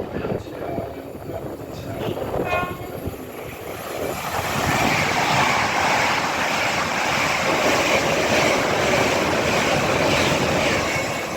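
Two coupled Class 805 Evero trains passing through the station, a loud steady rush of wheels and air building up from about four seconds in. The driver's horn gives a short tone as a greeting a couple of seconds before the rush builds.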